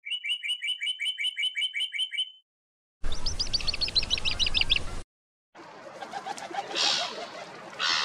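Three short pieces of bird sound, one after another: first a fast run of clear chirps, about five a second. After a short gap comes a noisier clip of rapid falling trill notes that cuts off abruptly. About five and a half seconds in, steady outdoor background starts, with two harsh gull calls near the end.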